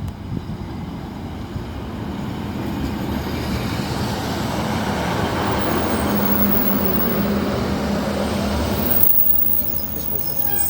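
Northern diesel multiple unit (class 156 coupled with a class 150) running, a steady drone with a low hum that grows louder over several seconds, then drops away abruptly about nine seconds in.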